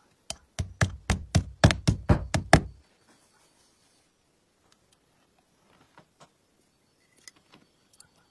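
About ten sharp knocks in quick succession over two seconds, mostly growing louder, then a few faint clicks.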